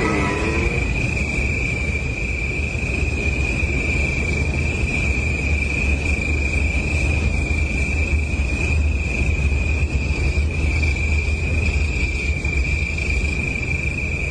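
Steady high-pitched insect drone over a low rumble.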